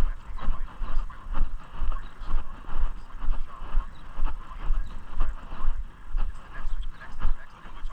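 Footsteps of a person walking at a steady pace, about two a second, each step a dull thud jostling the microphone, over steady background noise.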